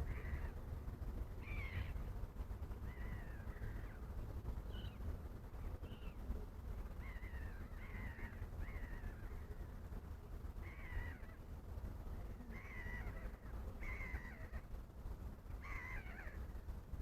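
Wild birds calling repeatedly, about a dozen short calls that fall in pitch, over a steady low rumble.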